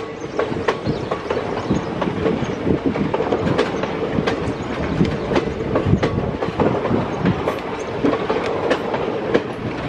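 Passenger coaches of an Indian Railways express train rolling past at speed. Their wheels clatter over the rail joints in an irregular clickety-clack over a steady rumble.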